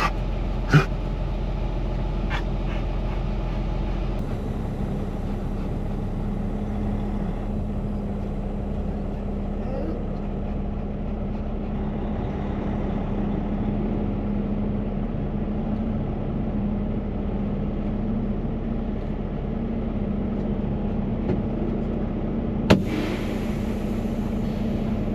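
Semi-truck idling, heard as a steady low drone with a held hum, and two sharp clicks, one about a second in and one near the end.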